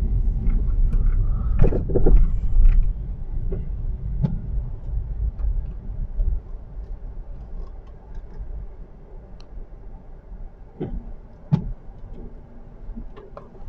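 Car on a slippery, snow-covered street, heard from inside the cabin: a steady low road-and-engine rumble that eases off after about six seconds. A few light clicks come near the end.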